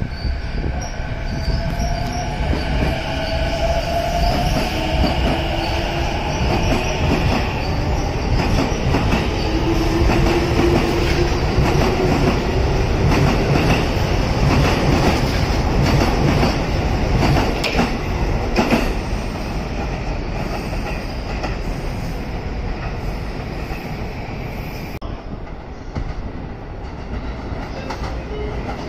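E233-series electric train pulling out, its traction motors whining in a rising pitch as it gathers speed, with wheels clacking over rail joints and points. The sound eases off in the last few seconds as the train moves away.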